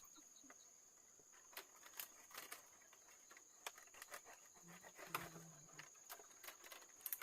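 Near silence: faint scattered clicks and taps over a steady thin high-pitched tone.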